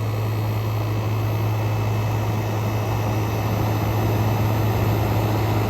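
Frigidaire Gallery GHWQ103WC1 10,000 BTU dual inverter air conditioner running steadily with its compressor at full power: a steady rush of fan air over a low, even hum. The condenser fan is running smoothly.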